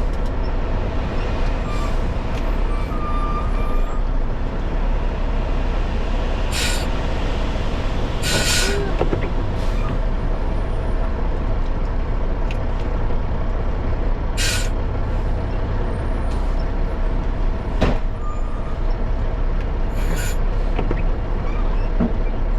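Dump truck's diesel engine running steadily, with several short hisses of released air.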